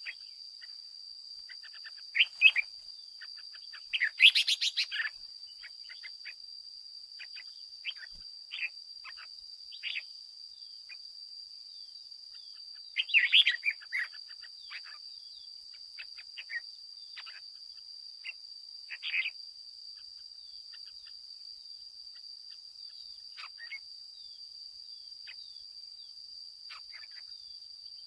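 Red-whiskered bulbul calling and singing in short, scattered chirps and brief warbled phrases, the loudest about four seconds in and again around thirteen seconds, over a steady high-pitched tone.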